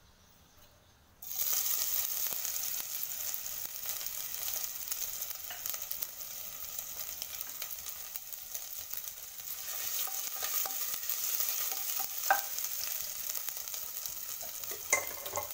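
Grated ginger sizzling as it fries in hot oil in a pot. The sizzle starts suddenly about a second in and then runs on steadily. There are a couple of light knocks later on.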